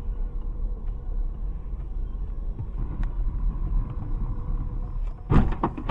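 Car driving, a steady low road rumble heard from inside the cabin, then about five seconds in a sudden cluster of loud thuds as the car strikes something.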